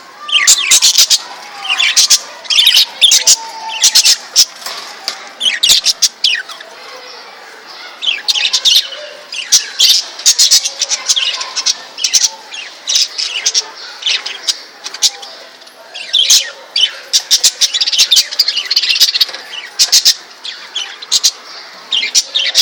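Several budgerigars chattering, with loud, sharp chirps and squawks coming in clusters and a softer warble beneath.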